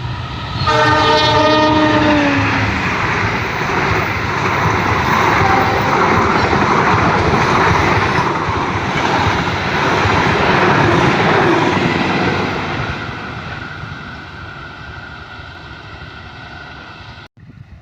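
KAI CC201 diesel locomotive's multi-tone horn blowing once for about two seconds as the train nears. The loud rush of the passing train follows for about ten seconds, then fades away and cuts off suddenly near the end.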